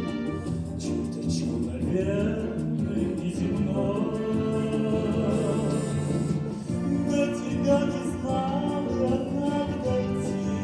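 Brass band playing a slow song, with a male voice singing over it.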